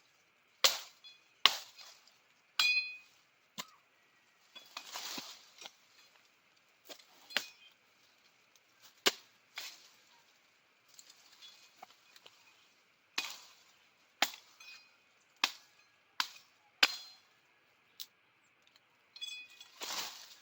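Hammering: sharp knocks with a brief metallic ring, spaced irregularly a second or two apart, as sticks are driven in around a trap.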